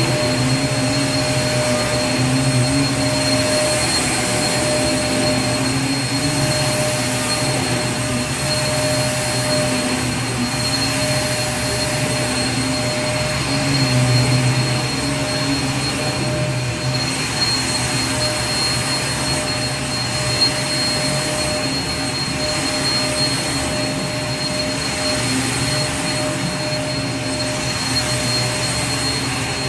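Vacuum cleaner running steadily: an even rush of air with a constant whine on top and a low hum that wavers slightly.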